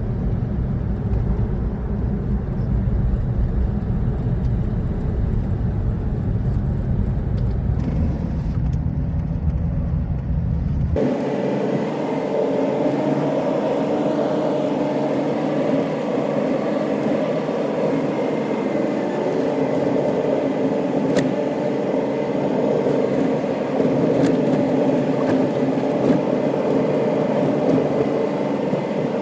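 A road vehicle's steady engine and road noise while driving. About 11 seconds in, the deep rumble cuts out suddenly and a steadier, higher hum takes over.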